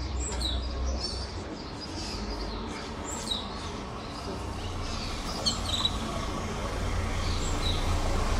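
Canaries chirping in short scattered calls, over a steady low hum.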